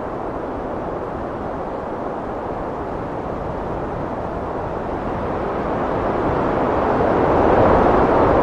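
Heavy wind blowing steadily, swelling into a stronger gust from about five seconds in.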